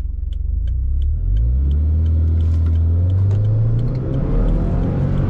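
Subaru Forester tS STI's turbocharged 2.0-litre boxer four pulling hard at full throttle through its CVT, which is in S mode with stepped ratios, heard from inside the cabin. The engine note steps up about a second in and the revs climb for a couple of seconds, then dip at an upshift near four seconds in.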